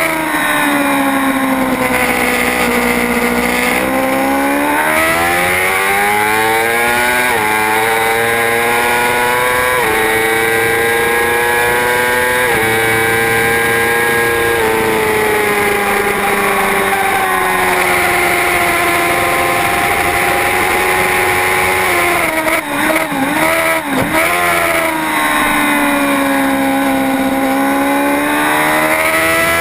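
Racing superbike's engine at race pace: it pulls hard up through the gears with quick upshifts, holds high revs, then drops back through several gears with sharp throttle stabs on the downshifts before climbing again.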